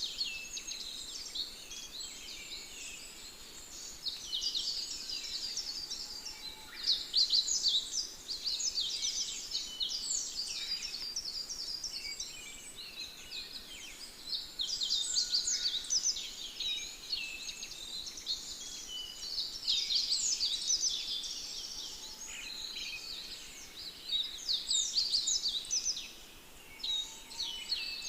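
Many small birds chirping and singing at once: a dense chorus of quick, high notes that swells and thins in waves.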